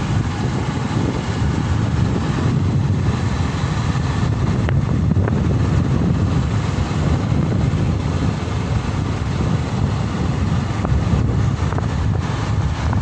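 Wind buffeting the microphone on a moving motorcycle, over a steady low rumble.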